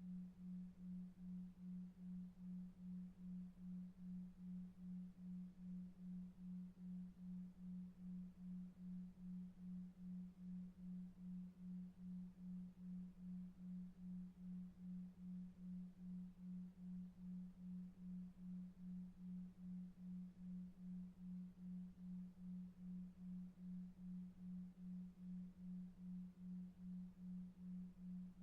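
Faint, low, steady pure tone pulsing about two and a half times a second over soft brown noise: a 2.5 Hz delta-wave beat tone for sleep.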